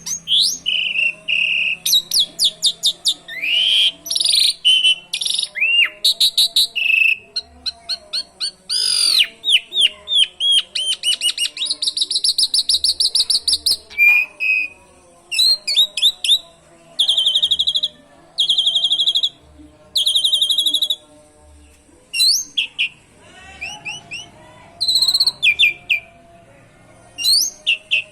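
Asian pied starling singing nonstop: a rapid mix of whistles, chirps and fast rolling trills, with canary-like phrases worked into its song.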